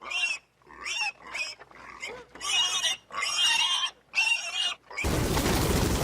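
Pig giving a series of about seven short, high-pitched squealing calls. At about five seconds the calls stop and a steady hiss takes over.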